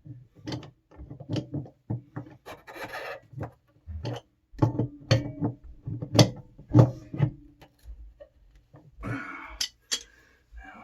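Electric water heater element being screwed into the tank fitting with a wrench: irregular metal scraping and short clunks, with a longer rasping scrape near the end.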